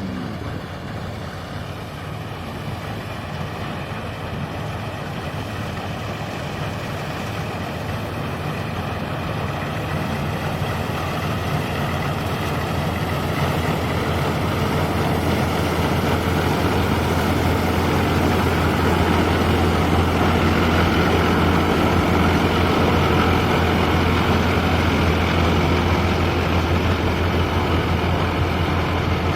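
Mahindra Jivo 245 DI mini tractor's diesel engine running steadily with a low hum. It grows gradually louder over the first fifteen seconds or so, then holds steady.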